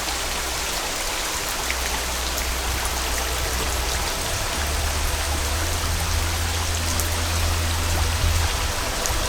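Waterfall: a steady, hissing rush of falling water with a low rumble underneath that grows stronger about halfway through.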